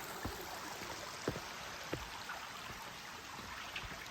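A small creek flowing and trickling, a steady wash of water. Three soft thumps come in the first two seconds.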